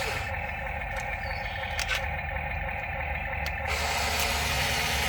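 Toy RC excavator running with a steady mechanical hum, with a single sharp click about two seconds in.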